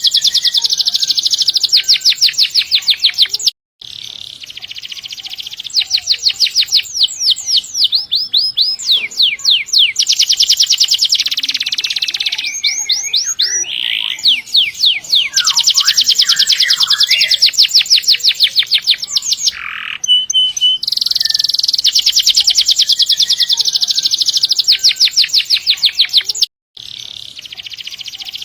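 Domestic canary in full song, delivering long rolling trills of rapid repeated high notes, phrase after phrase. The sound cuts out for an instant twice, near the start and near the end.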